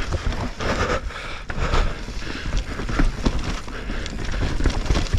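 Mountain bike descending a rough, rooty dirt trail: tyres on dirt and roots, with frequent irregular knocks and rattles from the bike chassis, and wind rumbling on a helmet-mounted action camera.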